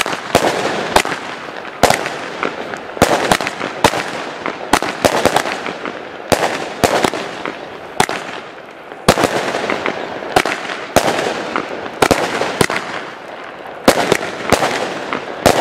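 Consumer firework battery firing shot after shot, about two sharp bangs a second with a few short pauses, with a continuous hiss from the rising comets and bursting stars between the bangs.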